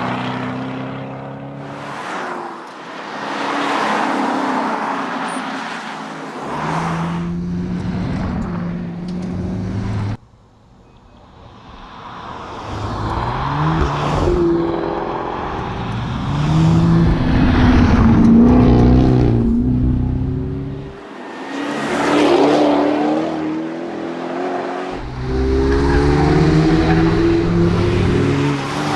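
The supercharged 5.0-litre V8 of an FGX Ford Falcon XR8 being driven hard, its pitch repeatedly climbing under acceleration and dropping at gear changes and lifts. About ten seconds in the sound cuts off suddenly, then builds again.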